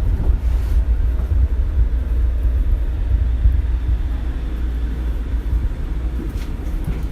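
Shonan Monorail suspended monorail car running along the line, heard from inside the car: a steady, heavy low rumble from its rubber-tyred running gear.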